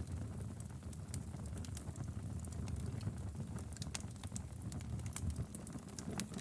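Wood fire crackling in a fireplace: frequent, irregular sharp snaps and pops over a steady low rumble of the flames.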